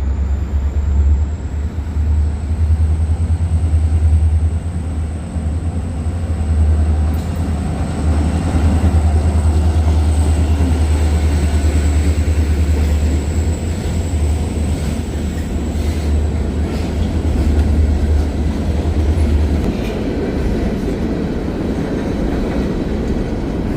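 A train rolling across a railroad trestle, with a steady low rumble, clatter from the wheels and a thin high whine held throughout. The deep rumble drops away about twenty seconds in.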